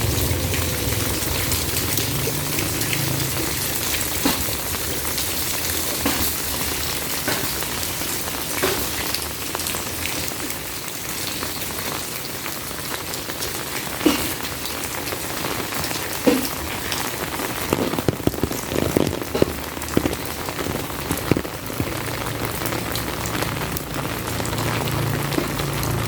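Heavy rain falling steadily, a dense patter with scattered louder drips, most of them between about 14 and 21 seconds in.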